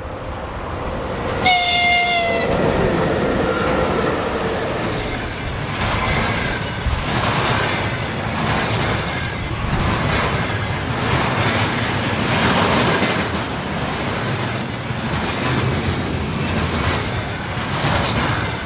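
An electric train sounds a short horn blast about a second and a half in, then passes close by, its wheels clacking over the rail joints in a steady repeating rhythm.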